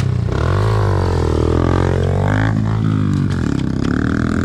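Pit bike engine revving while riding, its pitch rising and falling with the throttle over a steady low drone.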